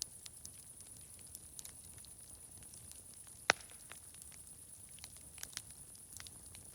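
Wood fire crackling: scattered small sharp snaps, with one loud pop about halfway through, over a steady high-pitched hiss.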